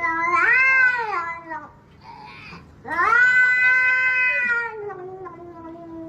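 A cat yowling in long drawn-out calls: one rises and falls about half a second in, a second long call starts around three seconds in, and the sound trails off into a lower held tone near the end.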